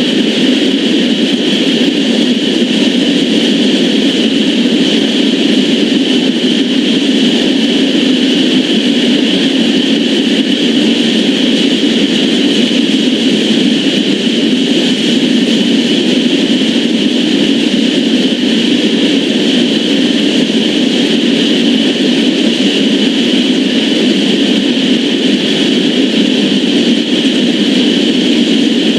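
Steel wheels of loaded crude-oil tank cars rolling past on the rails: a steady, unbroken rumble and hiss.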